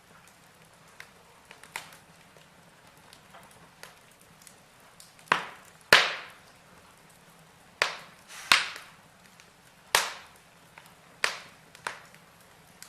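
Wood logs burning in a fireplace, crackling with faint ticks and about seven sharp, loud pops from about five seconds in.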